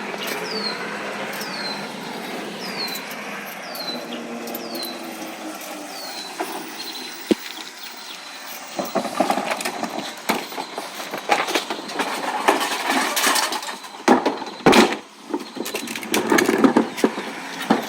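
Recyclables clattering and knocking at a recycling truck, with many sharp hard knocks in the second half, loudest about fourteen seconds in. Over the first six seconds a high falling chirp repeats about twice a second above a steady noisy background.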